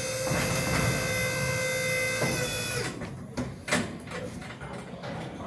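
A small electric motor whines steadily at one pitch, then cuts off a little under three seconds in, followed by a few sharp knocks.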